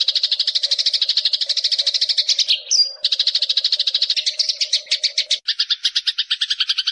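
Eurasian tree sparrows (burung gereja) chattering: a fast, unbroken run of short high chirps, more than a dozen a second, with a brief break just before 3 s and a change of chirp pattern about five and a half seconds in.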